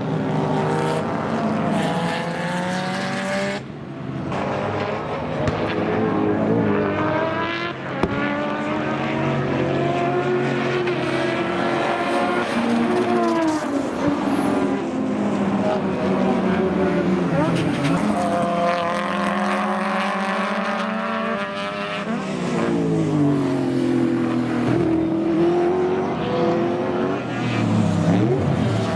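Sports sedan race car engines at high revs, climbing in pitch through each gear and dropping back at each shift as the cars accelerate and pass.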